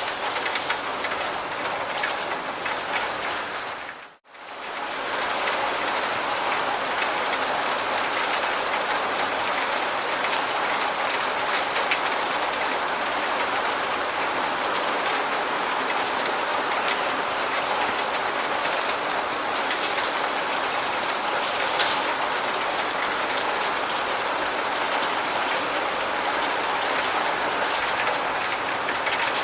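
Steady rain, a dense even hiss of drops with fine ticks. About four seconds in it cuts out almost to silence for a moment and swells back in, like a loop join.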